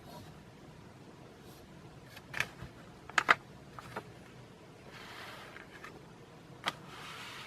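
Handling of a paper catalog: soft paper rustling as pages are moved, with a few sharp clicks and taps, the loudest a quick pair about three seconds in.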